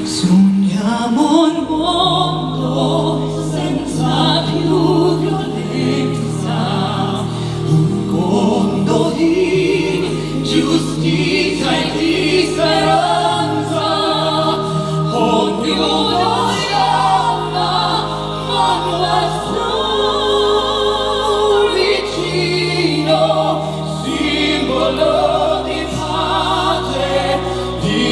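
A vocal ensemble singing in close harmony with vibrato over held low bass notes that change every few seconds.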